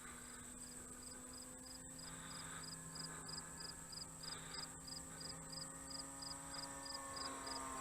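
Insects chirping, a regular pulse about three times a second over a steady high drone. Under them is the faint hum of the RC flying wing's brushless electric motor and 11x8 propeller, its pitch shifting slowly and dropping near the end as the plane passes.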